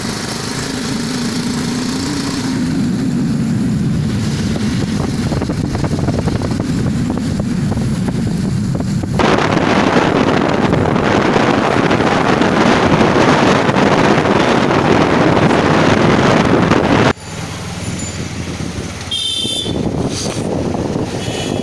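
Bajaj Pulsar 220F's single-cylinder engine running under way, its pitch rising and falling. About nine seconds in, a loud, even rushing noise suddenly takes over, and it cuts off abruptly about four seconds before the end, leaving the quieter engine.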